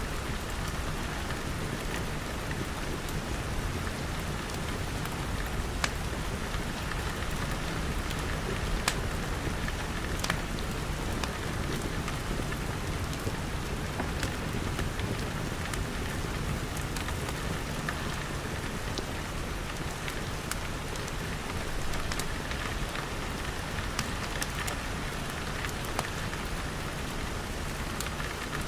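Steady rain pattering on glass, with a wood fire crackling in sharp, scattered pops.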